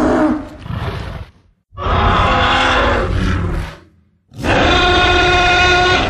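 Tyrannosaurus rex roar sound effects: a roar trailing off just after the start, followed by a shorter growl. Then two long roars of about two seconds each, separated by brief silences. The last roar is held at a steady pitch.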